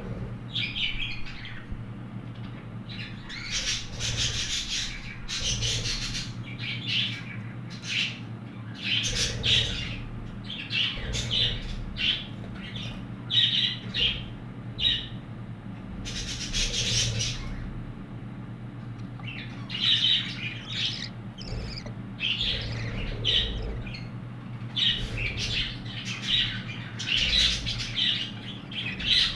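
Budgerigar chicks calling: many short calls in quick, irregular runs, over a steady low hum.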